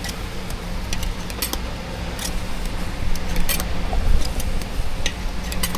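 Scattered light clicks and clinks, a few a second at irregular spacing, over a steady low hum.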